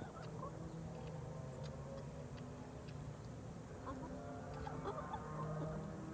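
Backyard chickens clucking quietly while they feed, the calls growing busier a few seconds in, with faint small ticks between them.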